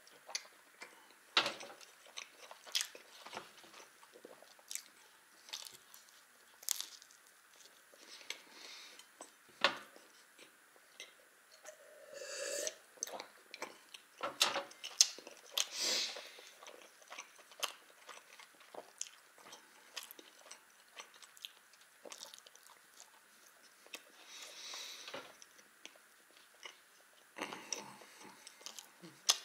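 A person biting and chewing soft sweet buns close to the microphone: irregular mouth smacks and clicks, a few louder than the rest.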